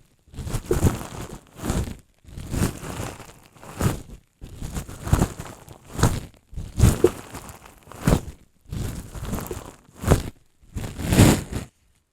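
Bubble wrap handled close to the microphone, crinkling in a series of short crackly bursts about once a second, with brief pauses between.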